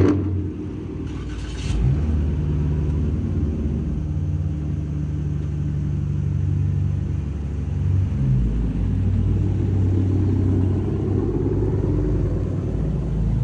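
Dodge muscle car engine catching with a loud burst and settling into a steady, low idle rumble, its tone shifting about two seconds in and again about eight seconds in.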